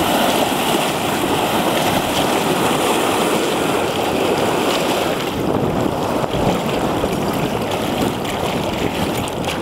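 Floodwater shooting up as a geyser from the middle of a street, pushed up by flooding: a steady rushing, splashing gush.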